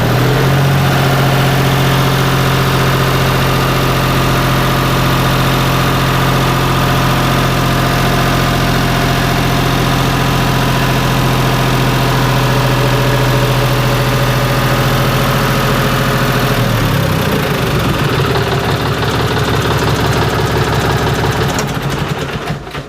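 Three-cylinder diesel tractor engine running steadily during a vibration test. Its note changes about three-quarters of the way through, turning more pulsing, and it drops away near the end.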